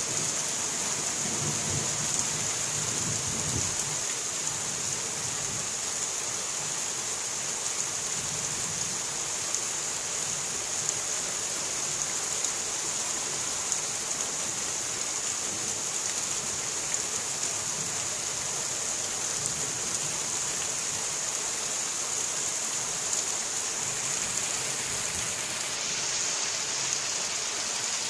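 Steady rain hiss of a thunderstorm, with a low rumble of distant thunder fading out about four seconds in.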